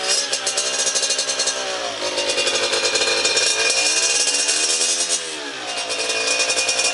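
Yamaha TZR two-stroke engine with a Yasuni R1 expansion-chamber exhaust, revved up and down several times with a metallic, crackling exhaust note.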